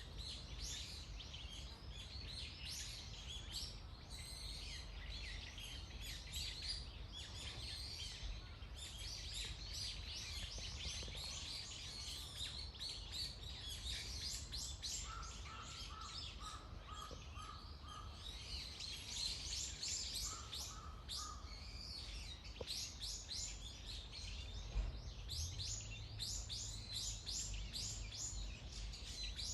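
Several wild songbirds chirping and calling in a forest: dense, quick, high chirps throughout, with a short run of evenly repeated lower notes about halfway through. A steady low rumble lies underneath.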